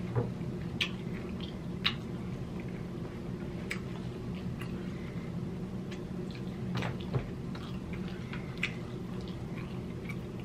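Close-miked chewing of food with wet mouth smacks and clicks every second or two, over a low steady hum.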